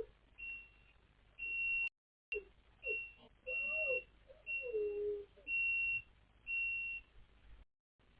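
Massage chair warning beep repeating about once a second, a single high tone each time. From about two seconds in, a dog answers with a few short rising-and-falling calls, ending in a longer drawn-out one.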